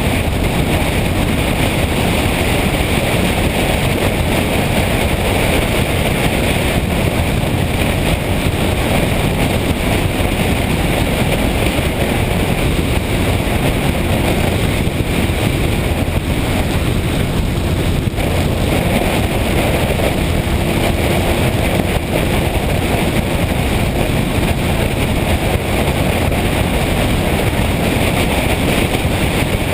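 Steady wind rush on the microphone and running noise of a motorcycle under way at a constant speed.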